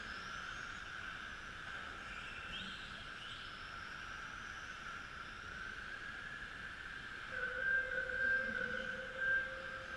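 Electric motors of radio-controlled model racing trucks whining, with short rising whines as the trucks accelerate. A steadier, louder whine sets in from about seven seconds in.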